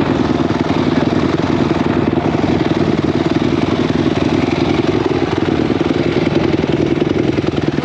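Off-road motorcycle's single-cylinder four-stroke engine running at a fairly steady speed, its rapid firing beat even throughout.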